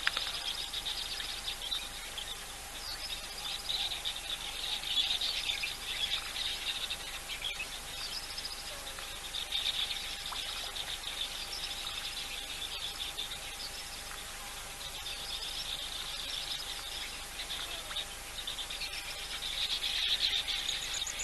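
Wild birds chirping and trilling in rapid bouts of a few seconds each, five or so times over, with a faint steady tone underneath.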